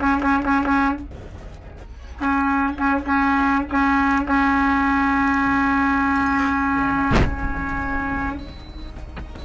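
Vehicle horn at one steady pitch: a string of quick short honks, then a few longer blasts from about two seconds in, then held for about four seconds before it stops. A short thump cuts in about seven seconds in, over a low steady rumble.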